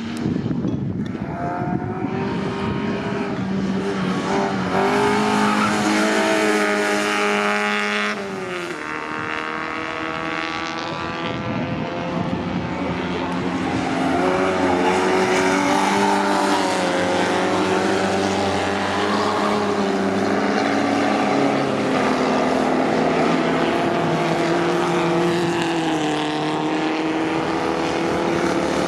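Vintage racing car engines at race speed, several cars going by one after another. Their engine notes climb as they accelerate, with a sudden drop in pitch about eight seconds in.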